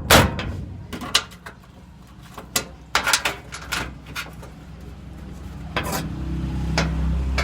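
Repeated metal clanks and knocks of tools and heavy parts being handled; about six seconds in, a steady low engine hum starts up and keeps running.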